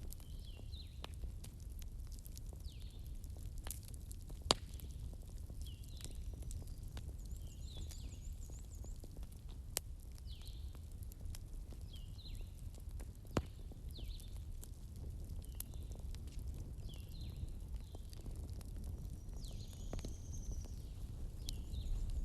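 Fireplace crackling: scattered sharp pops and snaps over a low, steady rumble of the fire. Short high chirps from a bird repeat every second or two.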